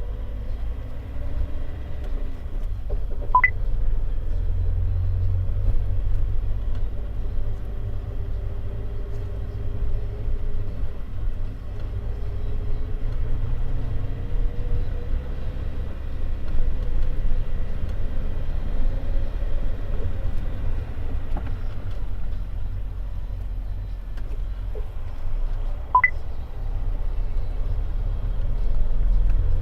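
Toyota AE86 Sprinter Trueno's four-cylinder engine cruising at steady highway speed under a heavy low road-and-drivetrain rumble. There is a faint engine tone that drifts slowly in pitch, and two brief sharp chirps, one a few seconds in and one near the end.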